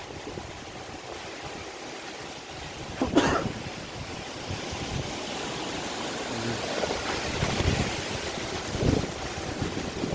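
Strong wind rushing steadily and buffeting the microphone as a storm blows in ahead of rain. There is a brief sharp sound about three seconds in.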